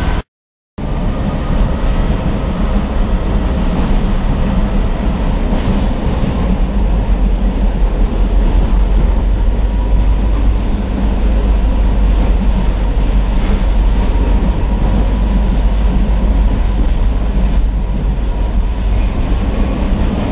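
Excursion train running along the track, heard from aboard a passenger car: a steady rumble of wheels on rail with faint ringing tones over it. The sound cuts out completely for about half a second near the start.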